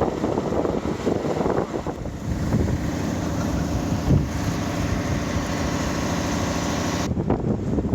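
Wind buffeting an unshielded microphone over a large vehicle's engine running; from about two and a half seconds in the engine's steady hum stands out. The sound changes abruptly near the end.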